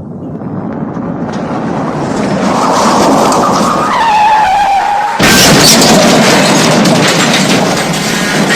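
Movie car crash sound effects: a rumble of a car rushing in builds up, a squeal sliding down in pitch comes about four seconds in, and a sudden loud crash lands about five seconds in. The crash is followed by a few seconds of loud noise with clattering.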